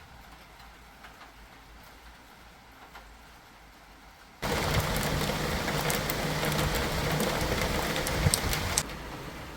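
Steady rain falling. About four seconds in it turns suddenly much louder and closer, with sharp drop-like ticks through it, then falls back to a quieter level near the end.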